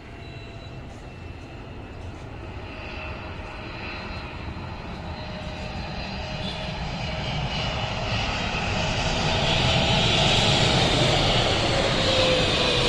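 Boeing 777 jet airliner on landing approach, its engines growing steadily louder as it comes closer, with a whine that starts to fall in pitch near the end as it passes.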